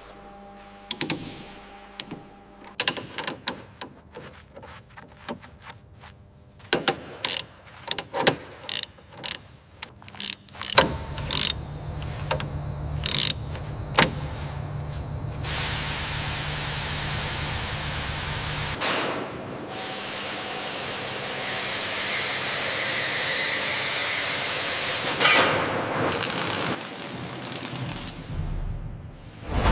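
Workshop machinery and tool sounds: a series of sharp clicks and metallic knocks, then a machine running steadily with a low hum from about a third of the way in, followed by a stretch of loud hissing noise.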